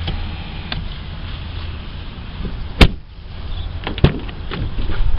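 A pickup truck's front door shutting with one loud thunk about three seconds in, then a second, sharper knock about a second later.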